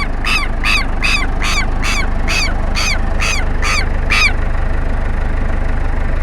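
Southern lapwing (tero) giving a rapid series of sharp, ringing alarm calls, about two a second, that stop about four seconds in. A steady low engine hum runs underneath.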